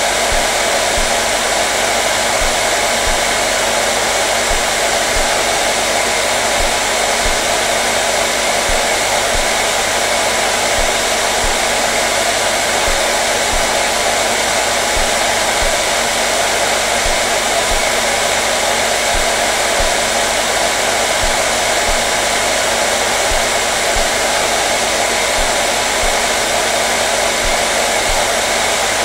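Electric hair dryer running steadily on one setting, a constant airy blowing noise with a faint steady hum from its motor.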